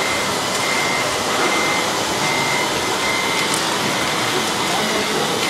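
Radio-controlled Volvo excavator model working, its hydraulic pump and motors giving a steady, dense whir. Over it a high beep repeats about every two-thirds of a second, like a reversing alarm.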